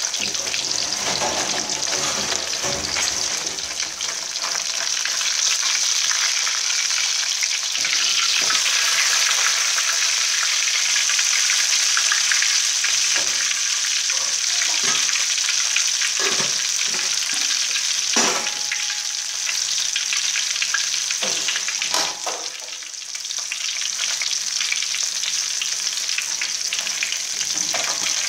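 Fish frying in shallow oil in a wok, a steady sizzle, with a metal spatula knocking and scraping against the wok a few times.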